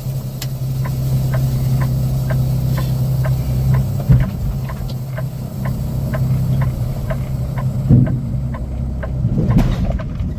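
Semi-truck diesel engine running steadily, with even clicking about twice a second over it. Two heavy thumps, about four and eight seconds in, come as the tractor backs under the trailer and couples to it.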